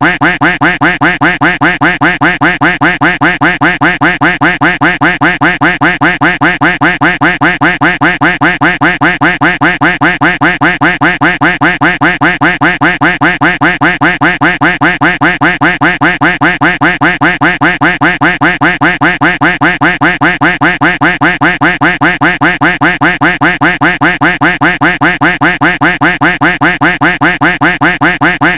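Duck quack sound effect looped without a break, the same nasal quack repeating rapidly and evenly several times a second.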